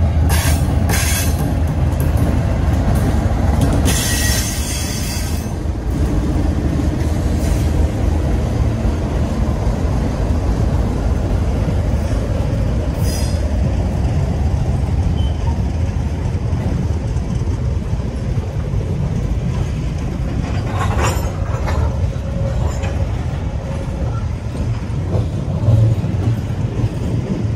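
Freight train passing close by: the diesel locomotives' engines run past near the start, then a long string of covered hopper wagons rolls by with a steady rumble of wheels on rail. A few brief high wheel screeches cut through, one about four seconds in and another near twenty seconds.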